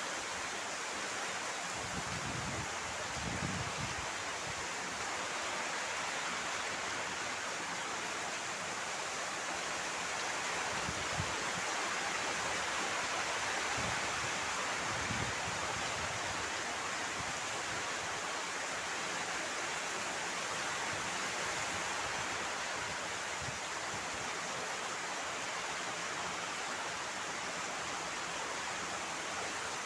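Heavy rain pouring steadily, with a few short low rumbles of wind gusting, about two seconds in and again in the middle.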